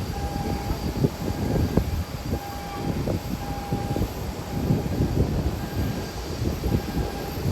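Gusty storm wind buffeting the phone's microphone in an uneven low rumble that swells and falls throughout, with a faint aircraft engine sound beneath it.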